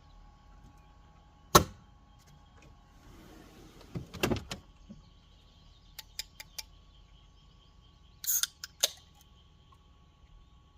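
A sharp knock, then a clatter of knocks a few seconds later, a few light clicks, and two short rasping sounds near the end. A faint steady insect drone runs underneath.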